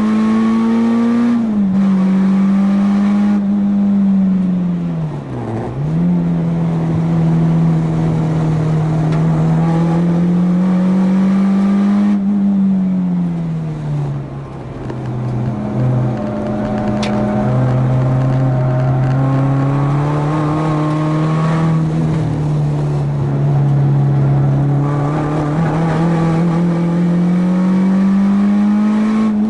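Four-cylinder race-prepared car engine at high revs lapping a circuit, its note climbing under acceleration and falling off under braking in long sweeps, with sudden drops in pitch a few times.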